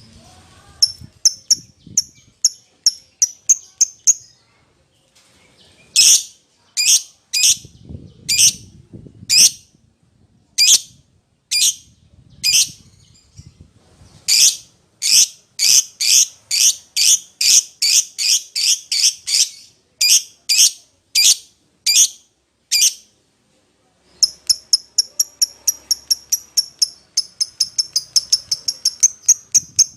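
Lovebird calling to another bird with repeated sharp, high-pitched shrieks. Some come singly, about one or two a second; others come in quick, rattling runs.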